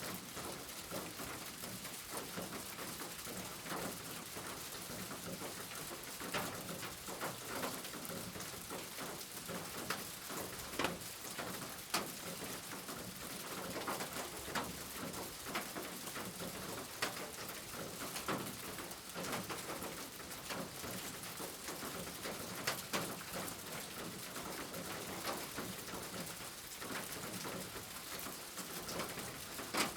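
Steady rain with irregular sharp drops tapping on a nearby surface, and pigeons cooing at times.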